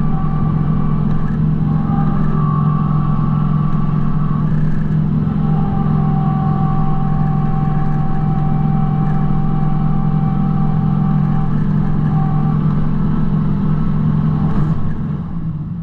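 Kubota B2650 compact tractor's diesel engine running steadily under a constant drone, with a higher whine that comes and goes over it; the sound fades out near the end.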